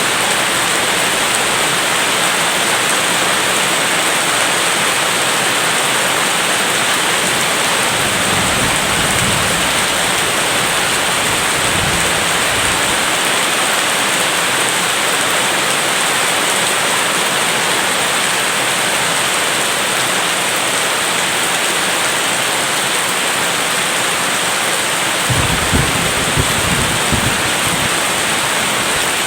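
Steady heavy rain, with low rumbles of thunder about eight seconds in, again around twelve seconds, and a stronger one near the end.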